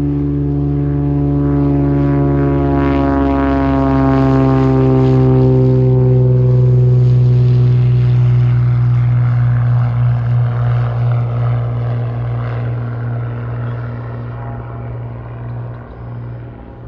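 Propeller airplane passing close by, its propeller and engine drone growing loud and then fading, with the pitch sliding down as it goes past.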